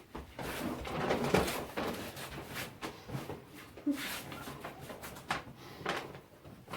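A person gasping and panting for breath in irregular strokes, acting out being unable to breathe, with a few scattered knocks.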